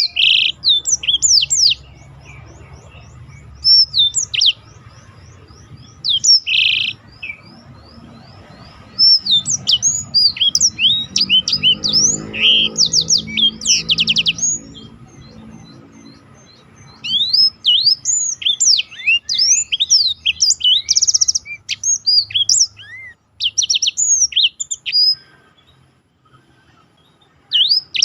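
Black-throated canary (blackthroat) singing: quick rolling phrases of rising and falling whistled chirps and fast trills. It comes in dense runs with sparser stretches between them.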